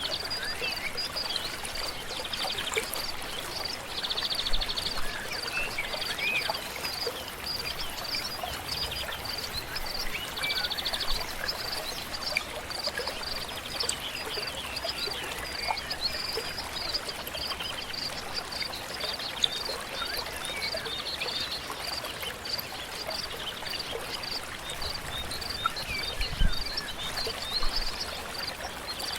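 Birds singing and chirping in a dense chorus of short, high, repeated calls over the steady rush of a flowing stream. A soft low thump sounds near the end.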